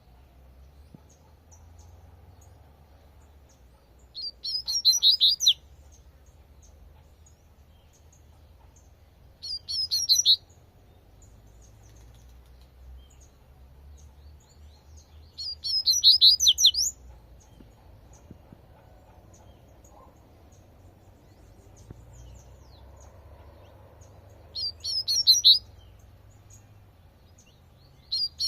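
Double-collared seedeater (coleirinho) singing its 'tui tui' song: four short phrases of rapid high notes, each about a second long and spaced several seconds apart, with another beginning right at the end. A faint low rumble sits underneath.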